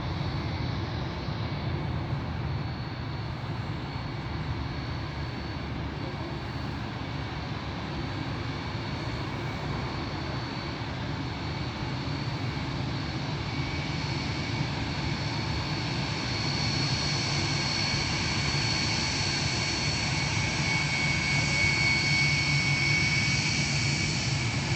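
Airbus A321neo's turbofan engines running with a steady roar and a high whine, growing louder over the second half.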